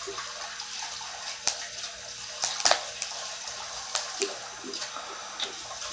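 Water running from a tap into a sink, a steady hiss, with a few short sharp clicks over it.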